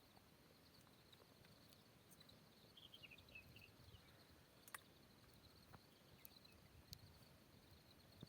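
Near silence of the outdoors: faint steady insect chirring, with a brief faint chirping about three seconds in and a few soft clicks.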